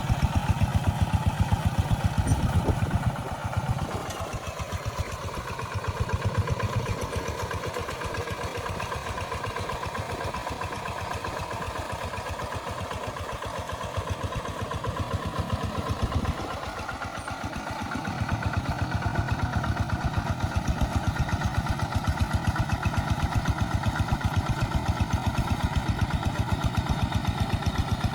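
Tractor engine running with a steady, rapid beat of firing pulses. It drops to a quieter, lower note about three seconds in and comes back up, louder, about eighteen seconds in.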